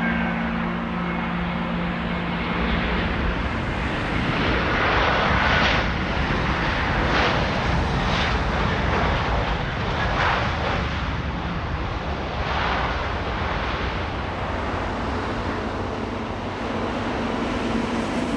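Jet airliner engines running loud and steady, the noise pulsing and swelling through the middle stretch.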